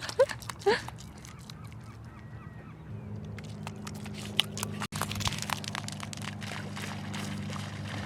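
Faint gull calls over the open flats, then, about three seconds in, the low steady hum of a motorboat engine that carries on, with scattered sharp clicks throughout.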